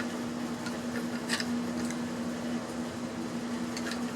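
A few light clicks from small electronic parts and tools being handled during disassembly, over a steady low electrical hum.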